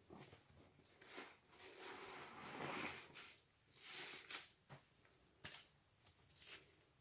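Faint squelching and crackling of a sponge soaked with washing machine liquid suds being squeezed, coming in several soft swells with a few sharp clicks near the end.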